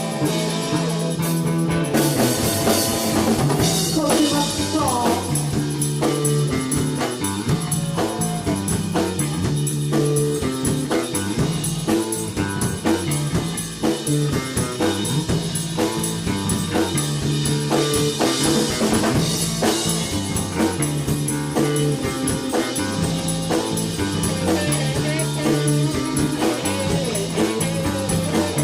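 Rock band playing: drum kit, electric guitar and bass guitar together, with a repeating bass line under the drums.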